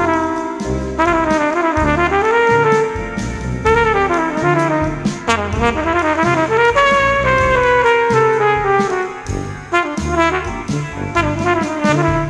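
Jazz brass ensemble playing: trumpet melody lines over tuba and baritone saxophone, with keyboards and a drum kit keeping time.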